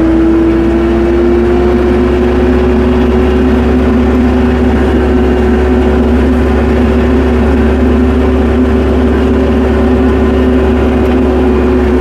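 Tractor engine running steadily while the tractor drives on, with a constant whine over a low rumble; the whine rises slightly in pitch in the first second or two and then holds steady.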